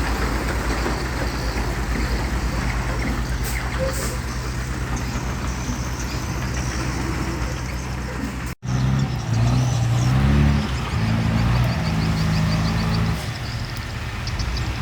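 Heavy diesel engine of the site machinery running steadily. About two-thirds of the way in there is a sudden cut, after which the engine note steps up and down in pitch as it is worked harder.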